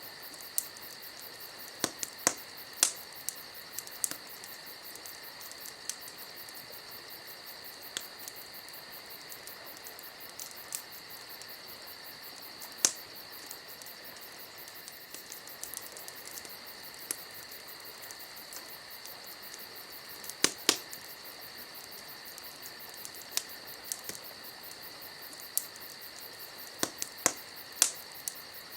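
Crickets chirping steadily, with the sharp, irregular pops and crackles of a burning wood campfire scattered through; the loudest pops come in small clusters a few seconds in, around two-thirds of the way through, and near the end.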